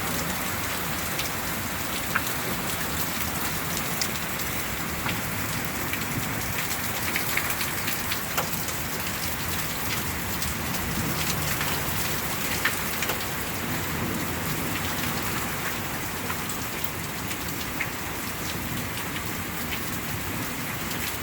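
Heavy rain falling steadily during a summer hailstorm, with scattered sharp clicks of hailstones striking.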